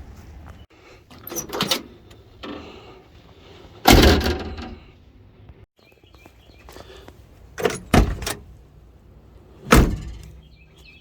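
Car door swung and shut several times, giving solid thuds, the loudest about four seconds in; the door has freshly replaced hinge pins and bushings.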